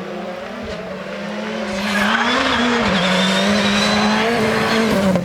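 Rally car engine running hard at high revs. It grows louder about two seconds in as the car comes close, with tyre noise over the engine note.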